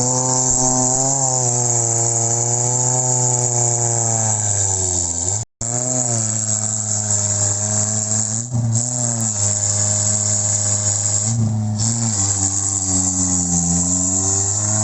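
Off-road 4x4's engine running under load, its pitch rising and falling slowly, over a steady high chirring of crickets. The sound cuts out for a moment about five seconds in.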